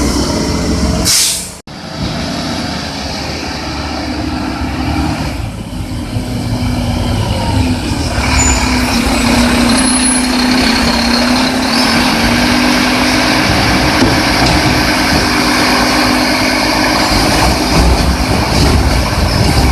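Garbage truck running, with a short air-brake hiss about a second in. After a brief break, the engine keeps running steadily, with a held hum for a few seconds around the middle.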